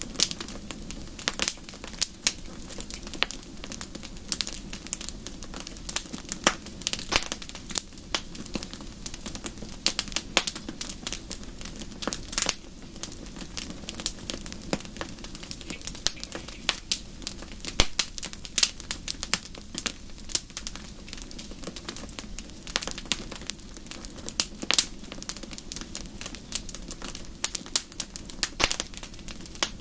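Wood fire crackling in a fireplace: a steady low rush of flames with frequent irregular sharp pops and snaps.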